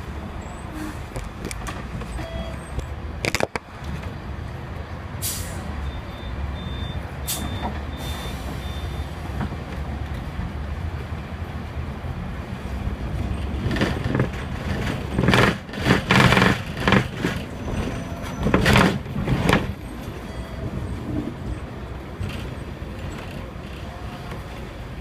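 Hong Kong electric tram running through street traffic, a steady low rumble, with a stretch of louder, irregular clattering about halfway through.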